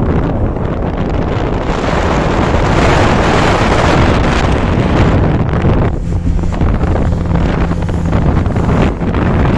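Strong wind buffeting the microphone, over the steady low drone of a boat engine on the river. The wind eases a little past the middle, letting the engine's hum show more clearly.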